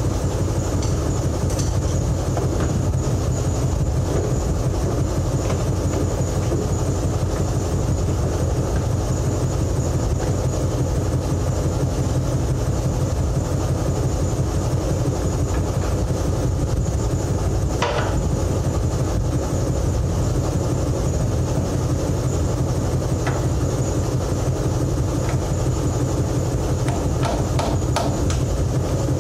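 An engine running steadily with a deep, even drone, with a single sharp click or knock about 18 seconds in and a few light ticks near the end.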